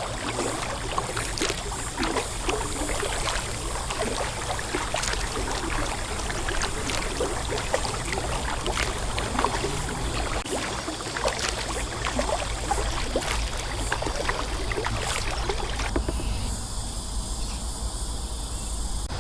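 Kayak paddling: water splashing and trickling off the paddle blades with many small splashes, over a low steady rumble of wind on the microphone.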